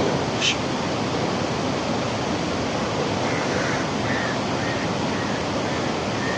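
Steady rushing noise with no clear pitch, with a brief high squeak about half a second in.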